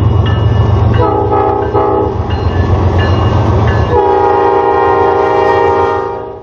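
Diesel locomotive air horn sounding three short blasts about a second in, then a long blast, over the heavy rumble of the locomotive and its train rolling by. The sound cuts off suddenly at the end.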